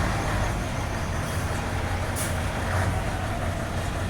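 Motor vehicle engine running steadily with a low rumble, with a short hiss about two seconds in.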